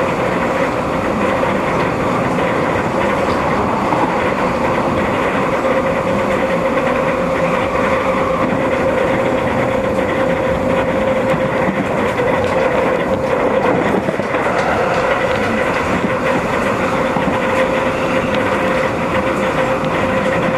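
Running sound of an MTR East Rail Line electric train at speed, heard from inside the car: a continuous rumble of wheels on the track with a steady whine. The whine wavers briefly about two-thirds of the way through.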